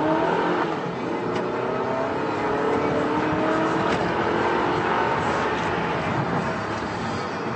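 2010 Mazda 3's 2.5-litre four-cylinder engine with a sport exhaust accelerating hard: its pitch climbs, drops at a gear change, then climbs again.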